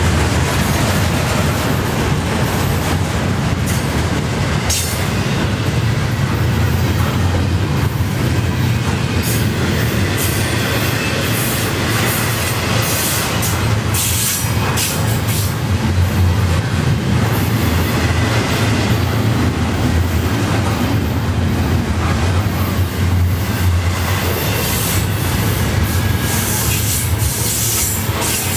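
Double-stack intermodal well cars of a freight train rolling past: a steady loud rumble of steel wheels on rail, broken by frequent irregular clicks and clanks.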